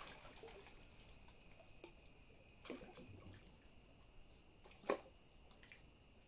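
Near silence: a faint steady high insect drone, with a few soft scattered clicks and a sharper click about five seconds in.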